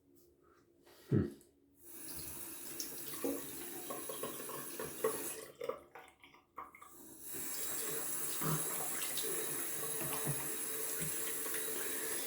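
Bathroom tap running into a sink, with splashing and small knocks as things are rinsed under the stream. A single knock comes about a second in before the water starts, and the flow breaks off briefly near the middle, then runs steadily again.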